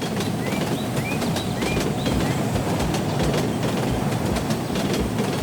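Heavy vehicle rumbling steadily with a rhythmic low clatter about three times a second, like wheels running over rail joints, and short rising high chirps above it.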